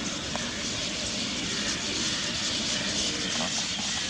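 A large flock of chestnut-tailed starlings calling all at once, a dense, steady chatter.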